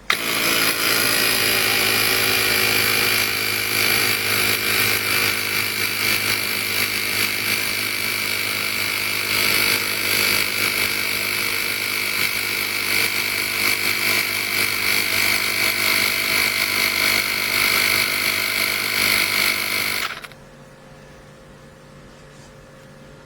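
CYCPLUS 150 PSI battery-powered mini air compressor (inflator) running, a steady loud motor-and-piston buzz that starts abruptly and cuts off suddenly after about twenty seconds.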